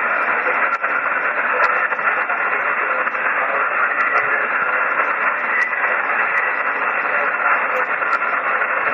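Shortwave single-sideband receiver hiss, steady and band-limited like a voice channel, with scattered faint crackles of static.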